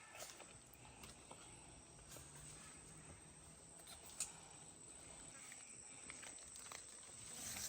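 Faint forest ambience: a thin, steady, high insect hum with a few light clicks and rustles.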